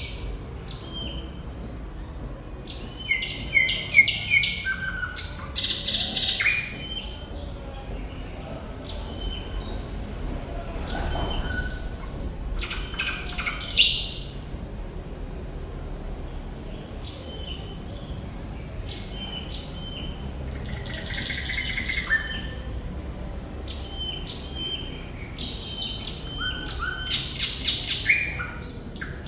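Thrush nightingale singing hard: phrase after phrase of rapid clicks and rattles mixed with short whistled notes, with brief pauses between phrases and one louder harsh phrase about two-thirds of the way through.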